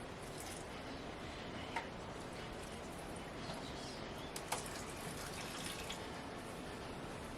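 Water running and dripping, with a couple of light clicks.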